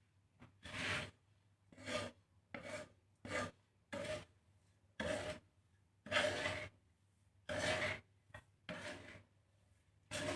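Spatula scraping and stirring a mix of millet, foxtail millet and black glutinous rice as it is dry-roasted in a pan: about a dozen rasping strokes, roughly one a second, with short pauses between.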